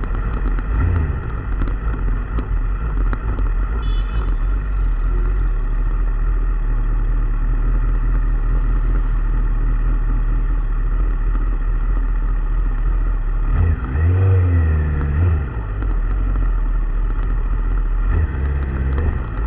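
A vehicle engine running steadily with a low rumble, revved up and back down about fourteen seconds in and briefly again near the end.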